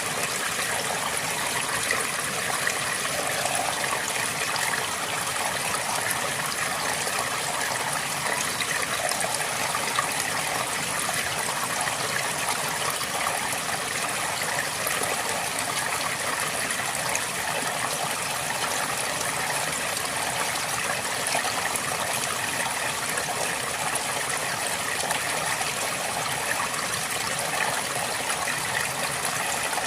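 River water flowing and trickling steadily, an even rush without breaks.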